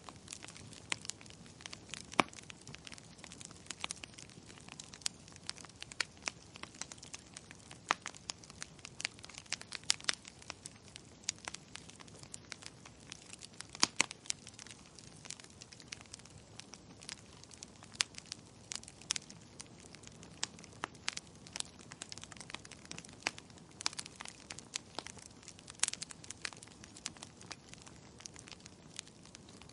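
Wood fire crackling in a fireplace: irregular sharp pops and snaps, a few louder ones about two seconds in and near the middle, over a steady low hiss.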